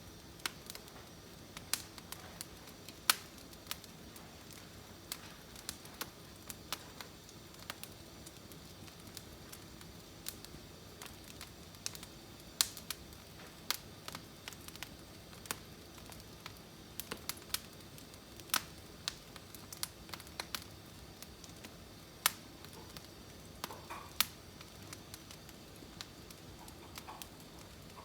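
Firewood burning in a wood-burning fireplace, crackling with irregular sharp pops over a low steady hiss.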